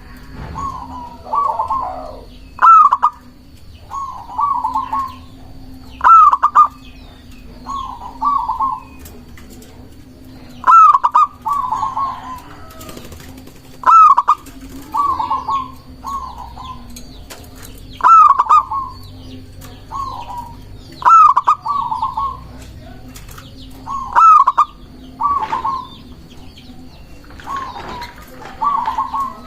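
Zebra dove (perkutut) singing, repeating its cooing phrase every few seconds, about ten times. Each phrase is a sharp rising note followed by a short run of quick coos.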